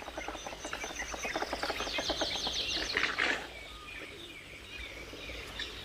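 A rapid chattering call, a fast series of clicks for about three seconds that ends in a high trill, followed by fainter scattered chirps of forest birds.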